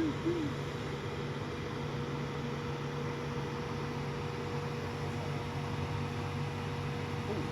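Steady hum with an even hiss: one clear held tone over a low drone, unchanging throughout.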